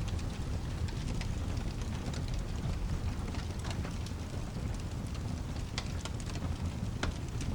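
Steady rain with a constant low rumble underneath and scattered sharp crackles from a log fire. The crackles come irregularly, a few loud ones near the end.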